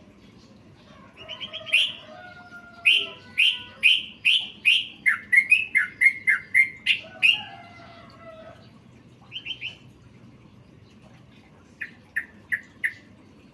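Yellow-vented bulbul (trucukan) singing: a fast run of about a dozen sharp, falling chirps, then a short burst of three notes and, near the end, four spaced chirps.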